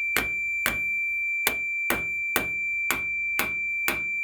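Continuity tester sounding a steady, unbroken beep tone while a furnace switch is tapped about twice a second, a sharp click with each tap. The tone never drops out under the tapping, so the switch is holding continuity and is not the faulty one.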